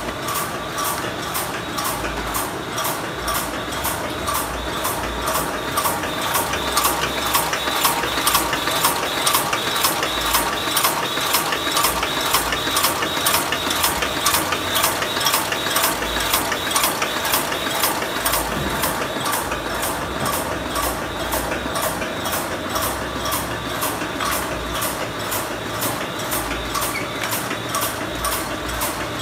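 SU500A BOPP film overwrapping machine running, its gears and mechanism clattering in a fast, even rhythm of clicks as it wraps boxes in film.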